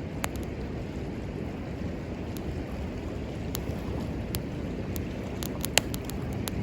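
Wood fire crackling with scattered sharp pops, one louder pop near the end, over a steady rushing of river water.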